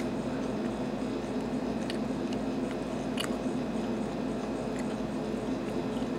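A person chewing a mouthful of baked chicken, with a few short light clicks, over a steady background hum.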